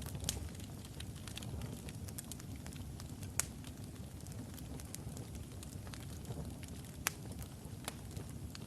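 Wood logs burning in a fireplace: a steady low rumble of the fire with irregular sharp crackles and pops, a few louder pops standing out.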